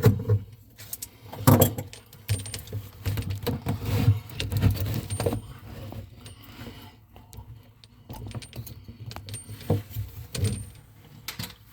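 Irregular metallic clinks, clicks and knocks of small metal parts and tools being handled and set down.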